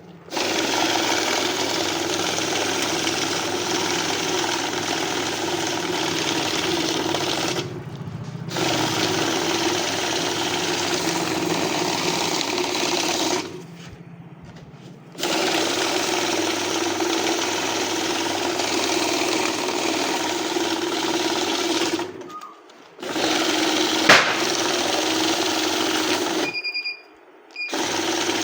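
Electric banknote counting machine running with a steady whirring rattle, stopping briefly four times between stacks of notes. A few short beeps sound during the last stop.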